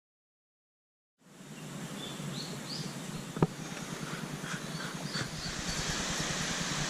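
About a second of silence, then outdoor ambience fades in: a steady rushing hiss with a few faint bird chirps and a single sharp click near the middle.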